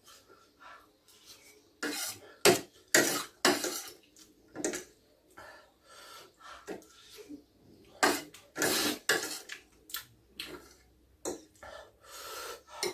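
Cutlery clinking and knocking against a bowl and plate while eating, in scattered, irregular clinks.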